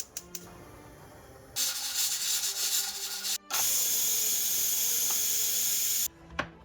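Steady hissing in two stretches: one starting about a second and a half in, and a louder, very even one from about three and a half seconds until it cuts off about six seconds in, over soft background music.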